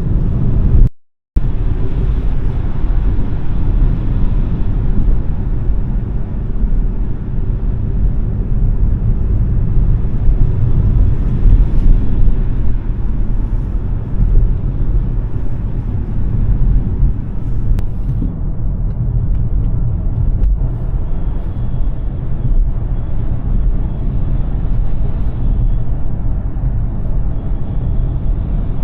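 Steady low rumble of road and tyre noise from a Smart #3 electric car being driven, with no engine note. The sound cuts out briefly about a second in.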